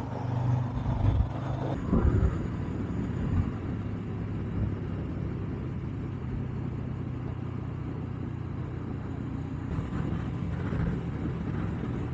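Honda CB500X's parallel-twin engine running at a steady cruise, with road and wind noise. A few louder bumps come in the first couple of seconds.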